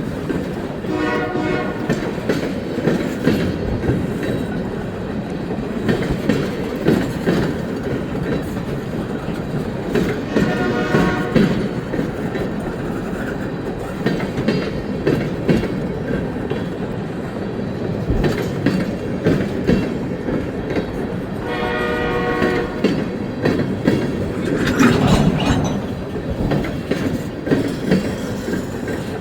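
Train rolling by with a steady rumble and wheels clacking over rail joints, its horn sounding three times: briefly about a second in, again about a third of the way through, and a longer blast about three quarters of the way through.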